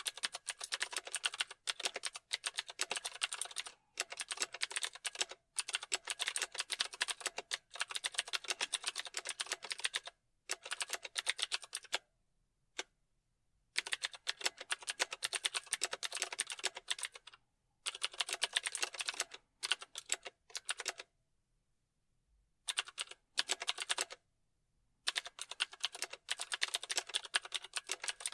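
Typing on a computer keyboard: quick runs of keystroke clicks lasting a few seconds each, broken by short pauses of a second or two.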